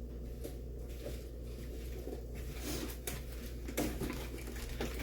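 A few light knocks and clicks from things being handled, over a steady low hum.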